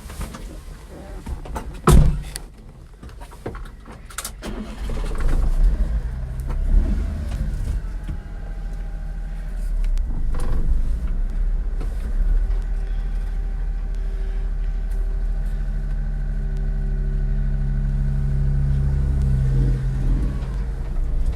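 1995 Mitsubishi 4x4 kei mini truck with its small 660 cc three-cylinder engine: a sharp click about two seconds in, then the engine running as the truck moves off. From about ten seconds in it settles into a steady drive, its pitch gliding with changes in engine speed.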